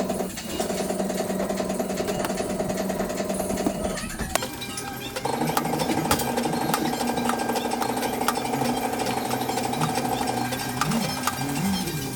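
A power tool running with a steady, rapid buzz. It stops briefly about four seconds in and starts again at a slightly different pitch.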